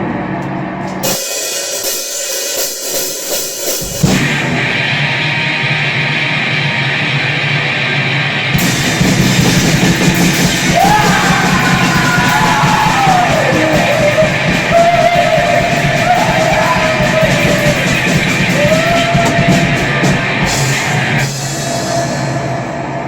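Grind/noise rock from a guitar-and-drums duo: distorted electric guitar, drum kit and shouted vocals. A thin, bass-less passage for about three seconds near the start gives way to the full band, which gets denser about eight seconds in, with wavering sliding tones over the middle.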